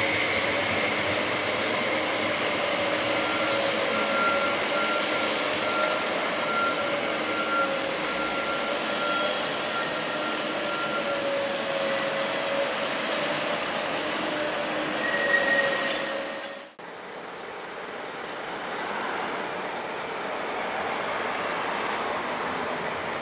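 CAF Urbos 3 tram running, a wavering whine and higher steady tones over a rumble of noise. It breaks off abruptly about two-thirds of the way through, giving way to a softer, even rushing noise.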